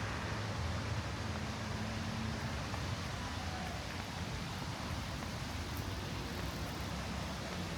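Steady outdoor city ambience: an even wash of noise with a low rumble under it and no distinct single sounds.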